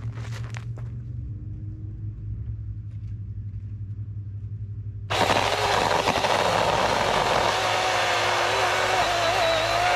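A power saw starts suddenly about five seconds in and runs loudly, its motor pitch wavering slightly. A low steady hum runs before it.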